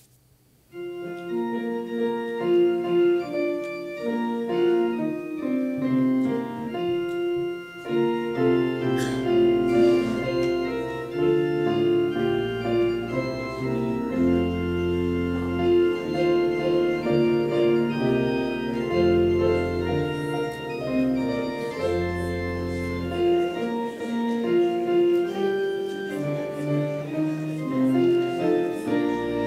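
Organ playing held chords, starting about a second in; from about eight seconds in, deep bass pedal notes sound beneath them.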